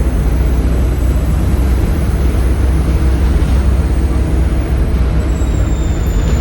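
Volvo B7RLE bus's 7.3-litre Volvo D7C diesel engine running steadily under way, a loud low drone with a high turbo whistle over it; the whistle starts to fall slightly in pitch near the end.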